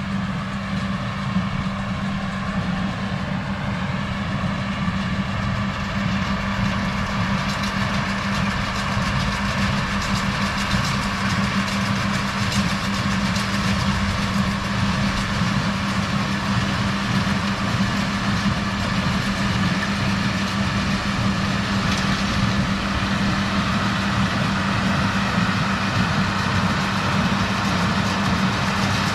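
A vehicle engine idling close by, a steady unchanging hum.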